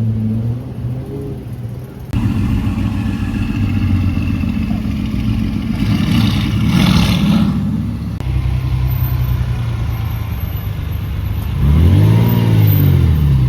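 Car engines running and driving past, with a louder pass around the middle and one throttle blip near the end whose pitch rises and falls.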